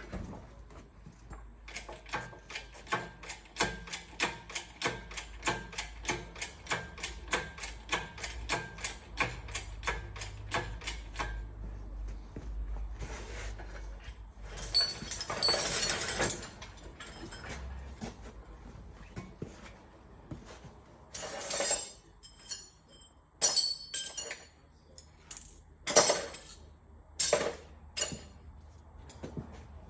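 An engine hoist lifting an engine out of a car: rapid, even metallic clicking, about two to three a second for some ten seconds. Then a brief rushing noise and several loud metal clanks near the end.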